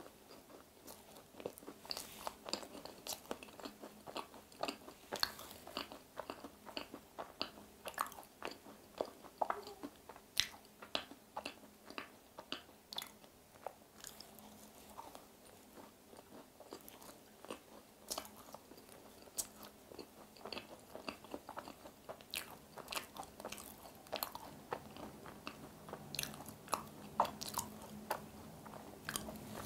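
Close-miked chewing of a macaron: repeated bites and small crisp crunches of the shell as it is chewed, with soft mouth sounds between.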